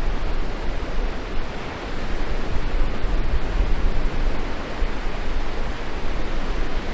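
Wind rushing over the microphone, a steady loud hiss with a flickering low rumble from gusts buffeting it.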